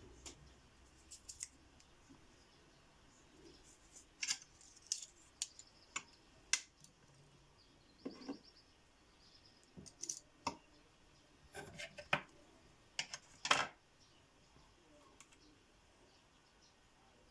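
Irregular small, sharp clicks and snips of fishing tackle being handled and cut: about a dozen, loudest a little past halfway.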